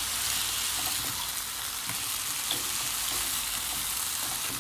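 Diced potatoes sizzling steadily in coconut oil in a nonstick kadai, fried dry with no water added, while a wooden spatula stirs them.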